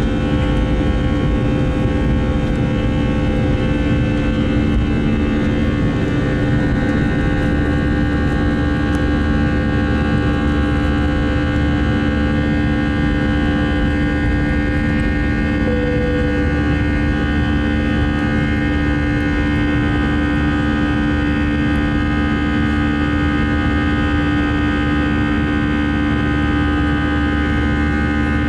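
Airliner cabin noise in flight: a steady jet-engine drone with a low rumble and several steady whining tones that hold unchanged.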